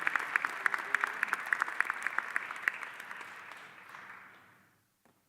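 Audience applauding, sharp individual claps over a dense patter, fading out over the last second or so.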